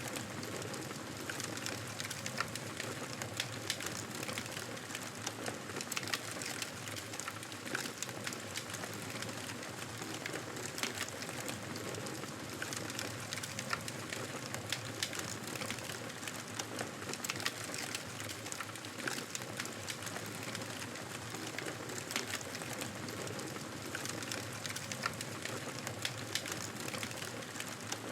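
Wood campfire burning, crackling steadily with frequent irregular sharp pops.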